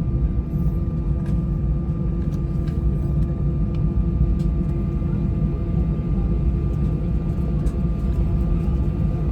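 Airbus A320-232 cabin noise while it waits to take off, its IAE V2500 engines at idle: a steady low rumble with a few constant whine tones above it and a few faint ticks.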